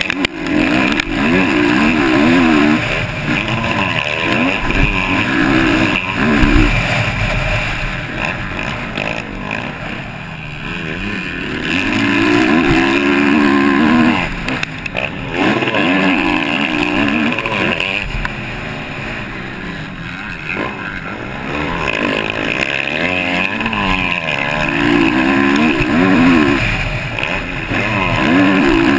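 Motocross bike engine racing, its revs climbing and dropping again and again as the rider accelerates, shifts and backs off.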